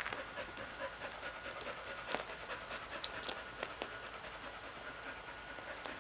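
Light, scattered taps and scratches of a green-cheeked conure's beak on a small plastic chest as it rummages for seeds, over a faint steady hum.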